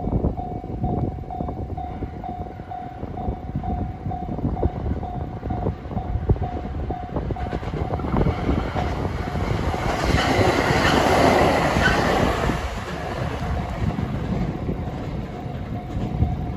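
Level-crossing alarm bell ringing in a steady rapid pulse as a 521 series electric train approaches. The train's rumble and wheel clatter build to a peak about eleven seconds in, drowning out the bell, then ease off as it passes.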